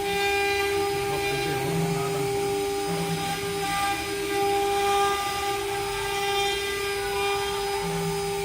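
Stone CNC router's spindle running with a steady high-pitched whine, with a lower hum that comes and goes.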